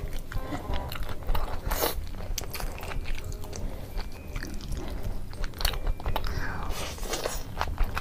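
Close-miked crunchy bites and chewing of crispy fried chicken: a run of irregular crackling crunches, the loudest about two seconds in.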